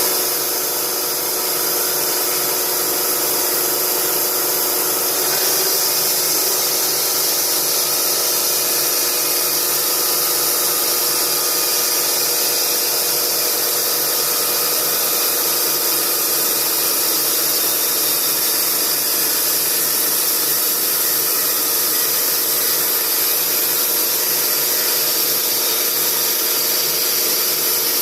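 Stihl chainsaw running steadily at full throttle while ripping lengthwise through a spruce log in a chainsaw mill, cutting boards.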